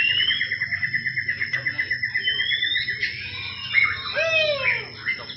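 White-rumped shama singing: a fast, even trill for about three seconds with short rising whistles over it, then a run of slurred, falling whistles.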